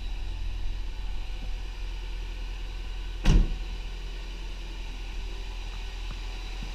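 2000 Honda Prelude's four-cylinder engine idling steadily while it warms up after a cold start. A single sharp thump about three seconds in.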